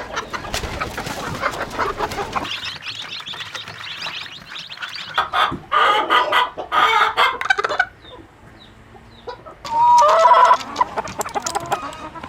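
A flock of chickens clucking and squawking, with a run of loud calls from about halfway in and the loudest single call at about ten seconds.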